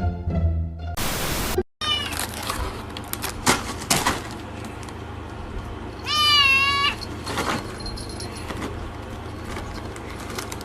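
Domestic cat meowing: a short call about two seconds in and a longer, wavering meow around six seconds in, with a few knocks and steady background hiss. A brief burst of static comes about a second in.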